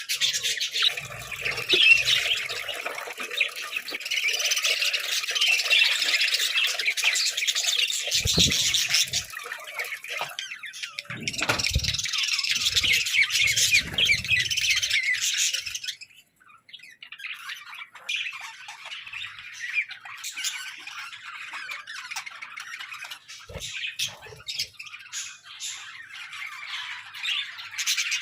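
Budgerigars chattering and squawking, many calls overlapping in a dense warble that thins out after a brief lull about halfway through. A few soft low thumps in the middle.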